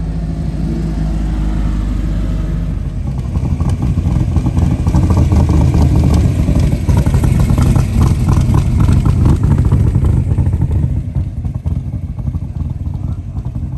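Loud exhaust of a performance car at close range. It grows louder a few seconds in as the car revs and pulls away, with a rapid pulsing rasp through the middle, then eases off near the end.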